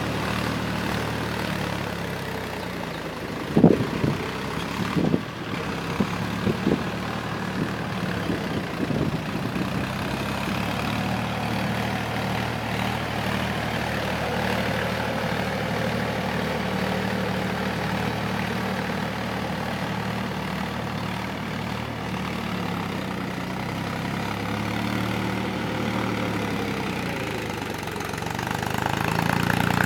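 Tractor engine running steadily at low speed, with a few sharp knocks about four to nine seconds in. Near the end the engine speeds up and grows louder.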